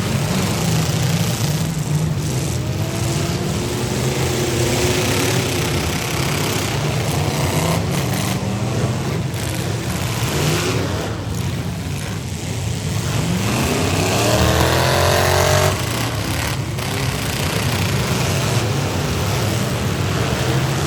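Several V8 demolition derby car engines running and revving together, their pitches rising and falling; about three-quarters of the way through one engine revs up steadily and cuts off suddenly.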